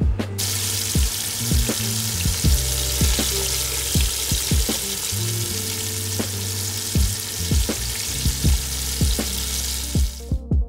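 Catfish pieces frying in hot oil: a steady, dense sizzle that starts about half a second in and dies away just before the end.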